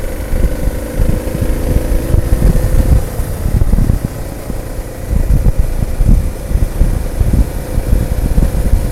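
Motorcycle engine running at a steady pitch while riding, with heavy wind buffeting on the microphone.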